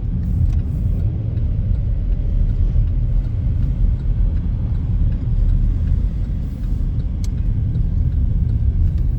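Steady low rumble of road and engine noise heard from inside a moving car's cabin, with a few faint clicks.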